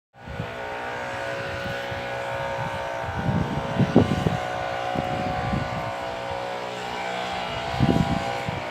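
Gale-force wind buffeting the microphone in low, irregular gusts, strongest about four seconds in and again near the end, over a steady drone.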